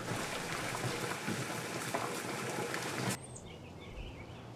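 Steady sizzle of food cooking on the stove, cutting off suddenly about three seconds in. Quiet outdoor ambience with faint bird chirps follows.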